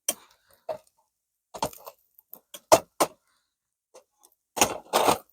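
A series of short, sharp clicks and knocks from objects being handled and set down, spaced irregularly, with a louder cluster of knocks near the end.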